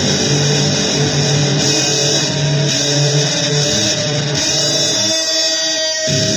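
Noisy, distorted electric guitar playing blues as a dense wall of sound. Near the end the low notes drop out for about a second while one held note rings on.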